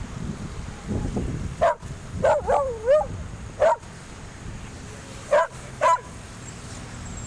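A dog barking in short single barks, about six of them, with a wavering yelp about three seconds in.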